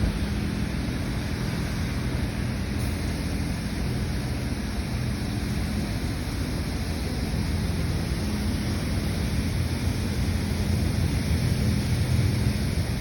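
Laserwash M5 touch-free car wash running: a steady hiss of high-pressure water spray with a low machine hum underneath.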